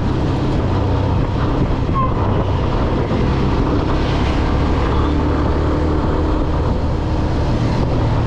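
Steady low rumble of a running vehicle, engine and road noise holding at an even level.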